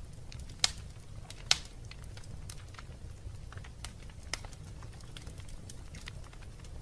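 Wood fire in a fireplace crackling: irregular sharp snaps and pops over a low steady rumble, with two louder pops within the first two seconds.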